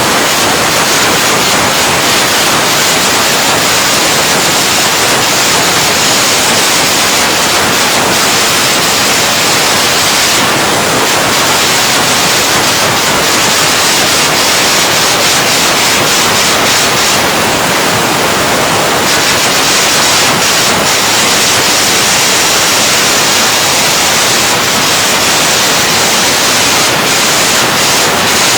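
An electric arc welding arc crackling and hissing steadily as a bead is run.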